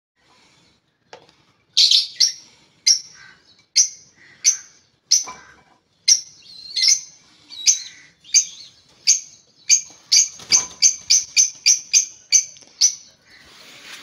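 A caged bird calling over and over with short, sharp, high chirps, at first every half second or so, then quickening to about three a second near the end.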